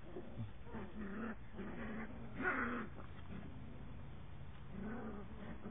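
Beagle puppies giving soft, wavering growls and whines, with a louder one about two and a half seconds in.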